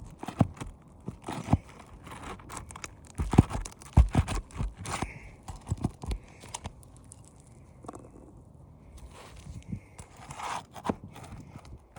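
Asphalt roof shingles being worked loose: irregular scraping, crunching and sharp clicks, the loudest a pair of knocks about three and a half and four seconds in, with a quieter stretch later on.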